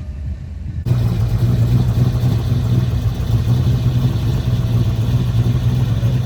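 A vehicle engine running steadily with a low, even hum and road or wind noise, coming in abruptly about a second in after a quieter low rumble.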